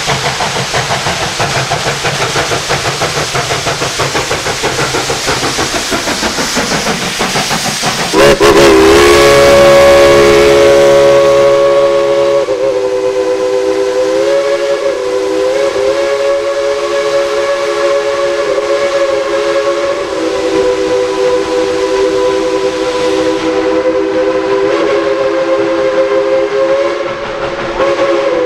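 Steam locomotive chuffing in a quick, even exhaust beat. About eight seconds in, its multi-note chime whistle starts, loudest at the onset, and is held as one long blast to the end, its chord wavering slightly in pitch now and then.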